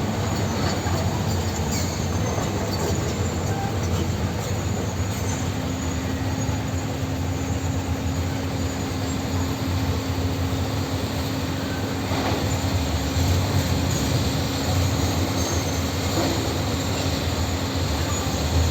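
Tractor's engine running steadily under load. A steady whine joins about five seconds in, and the sound grows a little louder about twelve seconds in.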